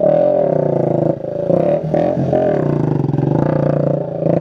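Small motorcycle's engine revving hard through a loud exhaust, its pitch rising and falling with brief dips between revs.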